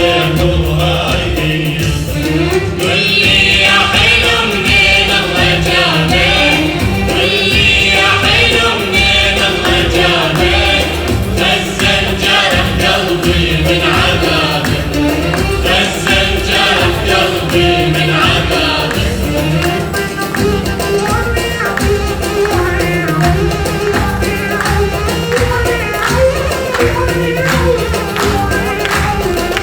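Live Iraqi folk music: a choir singing over percussion with a steady beat.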